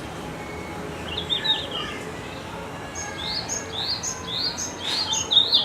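Red-flanked bluetail singing: a short high warbling phrase about a second in, then from about halfway a run of short rising notes repeated roughly twice a second, the loudest near the end.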